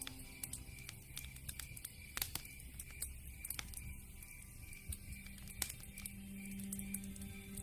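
Wood fire crackling: irregular sharp pops and snaps from burning logs, two of them louder about two and five and a half seconds in. Soft background music with sustained notes plays underneath.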